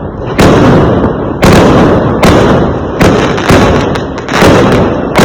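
Fireworks exploding: a rapid series of loud booming bangs, about seven in five seconds, each sudden and trailing off in a fading rumble that runs into the next.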